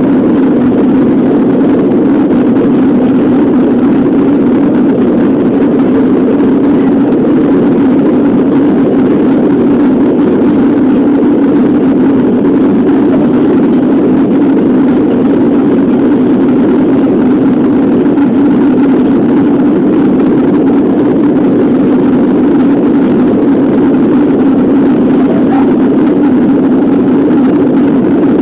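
Airbus A330 jet engines and rushing air heard from inside the cabin during take-off, a steady, even low roar.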